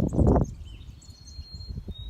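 A burst of low rumbling noise on the microphone for the first half second, then a songbird whistles a long, thin, steady high note starting about a second in.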